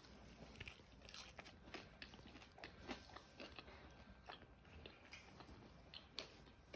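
Faint crunching and chewing of fried hot chicken: a string of small, irregular crisp clicks as it is bitten and chewed.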